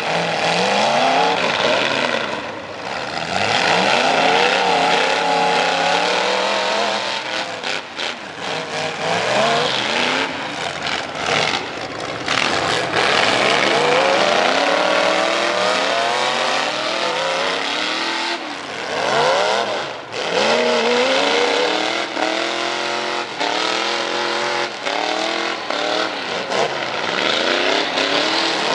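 Several pickup truck engines with loud exhausts racing on a snow track, repeatedly revving up and easing off, their pitches overlapping and rising and falling every few seconds.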